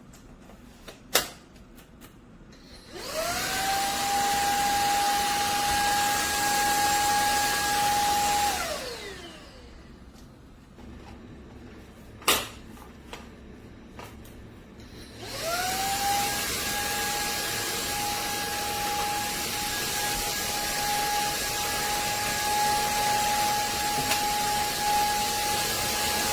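Cordless stick vacuum cleaner with a sharp click about a second in, then its motor spinning up to a steady high whine. About 8 seconds in the motor winds down with a falling pitch. After another sharp click a few seconds later, it spins up again and runs steadily to the end.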